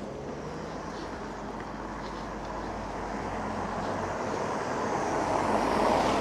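A passing vehicle: a steady rushing noise that swells slowly, is loudest near the end, then begins to fade.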